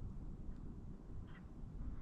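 Faint outdoor background with a low, unsteady rumble, and one short high chirp about a second and a half in.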